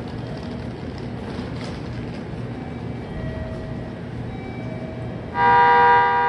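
Low, steady hum of a stopped JR Kyushu 885-series electric express train at a station platform. About five seconds in, a loud, steady warning tone of several notes at once starts suddenly and rings out.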